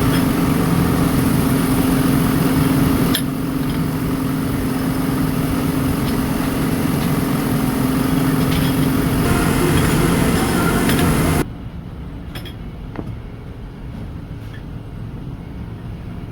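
Workshop machinery running with a loud, steady hum. The sound changes abruptly about three seconds in, then drops suddenly to a much quieter stretch about eleven seconds in, where a few light metal clinks sound.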